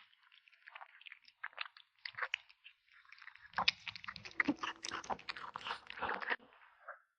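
A kitten chewing meat: irregular wet crunching and smacking bites, denser and louder from about halfway through.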